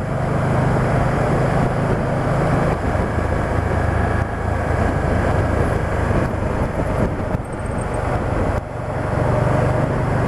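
Can-Am Spyder three-wheeled motorcycle running steadily at road speed on a winding road: a low engine hum under a constant rush of wind and road noise.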